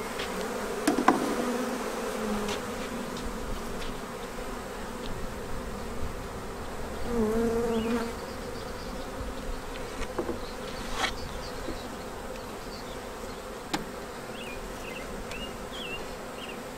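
A swarm of honeybees buzzing in a steady hum, with one bee buzzing louder close by about seven seconds in. A few sharp knocks sound now and then.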